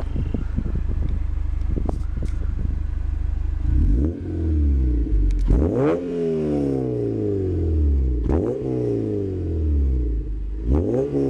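Honda Civic Si four-cylinder with an aftermarket header and Mugen cat-back exhaust idling with a light clatter, then revved about four times from about four seconds in, each rev rising sharply and falling back toward idle.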